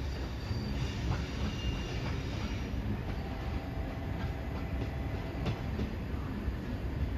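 Train running on the rails: a steady low rumble with a few faint clicks, and a thin whine-like tone midway.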